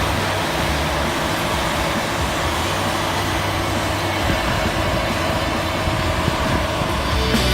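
Case IH Axial Flow 9240 combine harvester running steadily under harvesting load, a constant drone of engine and machinery.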